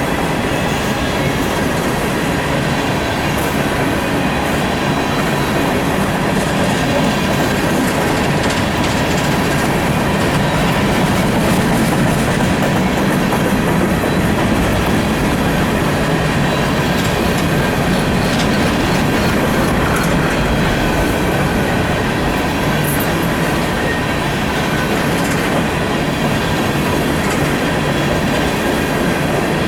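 Coal train cars rolling past in a steady, loud rumble of steel wheels on rail, with clattering at the rail joints and faint thin wheel squeal.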